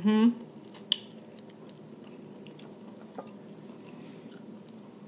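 Quiet sounds of a person eating peeled shellfish: faint chewing with one sharp click about a second in and a smaller one later, after a brief voiced sound at the very start.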